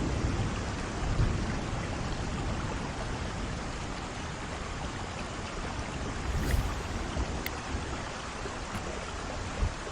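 Rain falling steadily, with low rumbles of thunder swelling about a second in and again past the middle.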